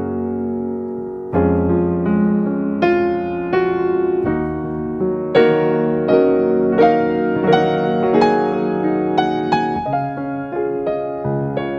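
Background piano music: soft, slow notes, each struck and left to fade.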